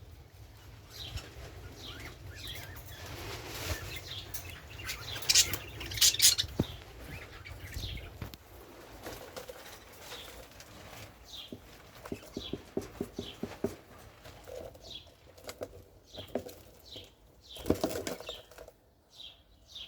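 Budgerigars giving short, falling chirps again and again, with bursts of wing flapping about five to six seconds in and again near the end, and a quick run of clicks in the middle.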